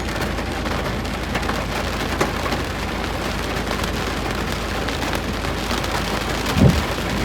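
Heavy rain falling steadily, with scattered drops ticking, and a single short low thump near the end.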